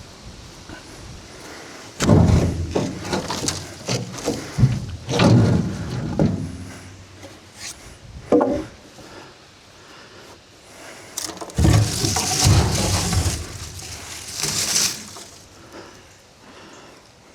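Wooden knocks and thuds of cut logs being handled and dropped, coming in several irregular bunches with rustling in between.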